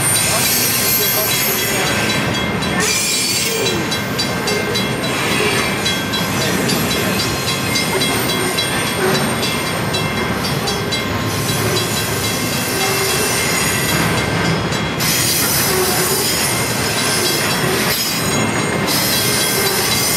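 Cars of a rail train rolling past: steady rumble of steel wheels on track, with high wheel squeal and rapid clicking over the rail joints.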